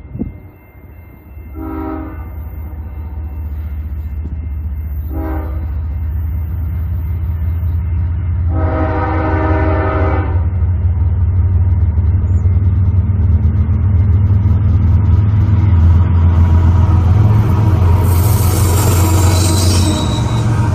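CP ES44AC diesel-electric locomotive sounding its horn, two short blasts and then one long one, over the low rumble of its engine growing louder as the train approaches. A high hiss comes in near the end.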